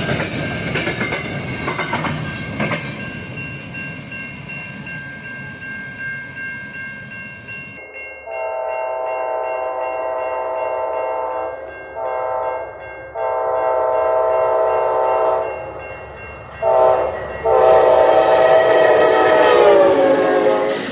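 A passing train rumbles with rail clatter and a few steady high ringing tones, then a multi-note locomotive air horn sounds a series of five blasts (long, short, long, short, long). The final long blast drops in pitch as the locomotive goes by.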